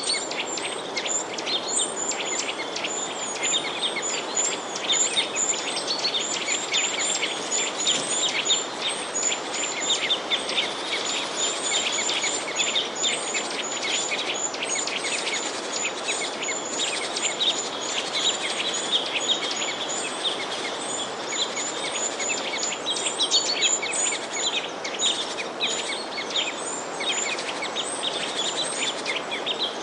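Many small birds chirping and twittering together in a dense, continuous chorus of quick, high chirps, over a steady background hiss.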